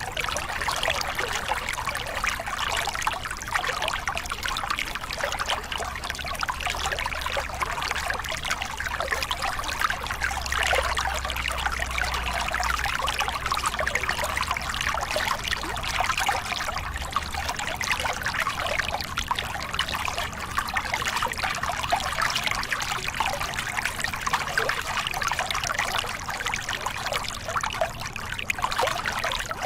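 Small river cascade: water splashing and rushing over rocks in a steady, unbroken flow.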